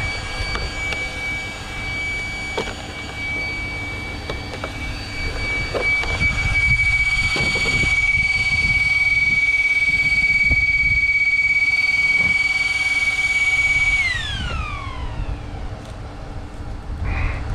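Small electric cooling fans on an RC car's motor and ESC whining at a loud, steady high pitch, then spinning down with a falling pitch about fourteen seconds in.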